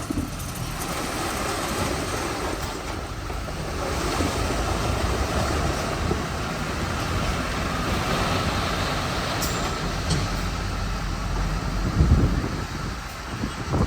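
Komatsu D41P bulldozer's diesel engine running steadily as it works, with a brief louder surge about twelve seconds in.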